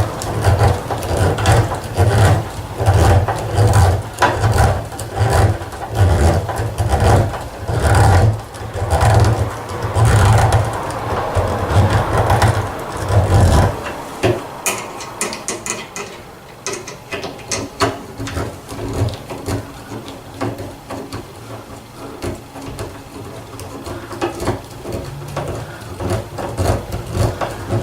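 Hand-tool work on wood: repeated scraping strokes at a steady rhythm for about the first half, then quieter scattered scrapes and knocks.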